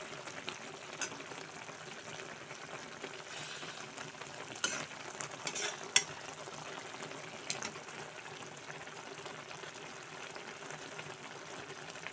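Spinach and fenugreek leaves sizzling steadily in hot oil in a metal karahi. A perforated steel spatula stirs them and clicks against the pan a few times, most of the clicks falling near the middle.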